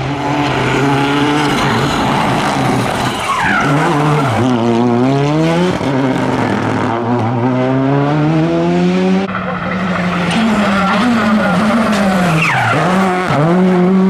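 Rally car engine revving hard under acceleration. Its note climbs steadily, drops sharply about two-thirds of the way through, then wavers and dips twice near the end, as on gear changes and lifting off the throttle.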